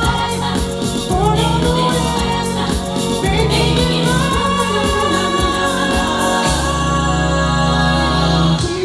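Music: a group of voices singing together in long held notes over a backing track with a pulsing bass.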